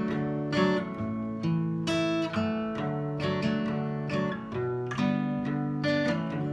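Instrumental break of a song: strummed acoustic guitar playing a chord progression, no singing.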